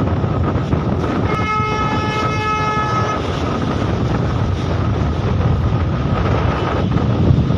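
Strong windstorm wind buffeting the microphone in a loud, steady rush. About a second in, a horn sounds one steady note for nearly two seconds.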